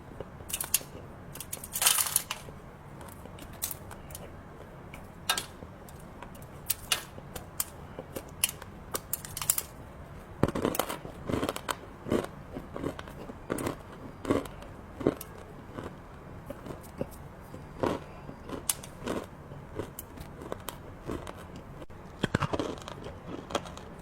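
Biting and chewing hard, crunchy chocolate treats: irregular sharp crunches, with denser runs of crunching about halfway through and near the end.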